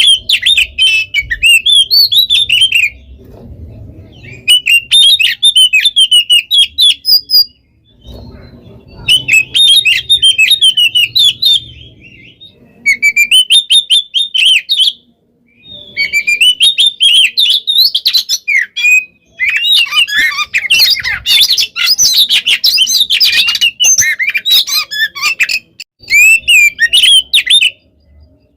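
Oriental magpie-robin (kacer) singing loudly in rapid, varied runs of whistles and chattering notes, the dense non-stop 'gacor' song of a bird in peak singing condition. It comes in bouts of a few seconds with short pauses between, and the fullest, densest run is a little past the middle.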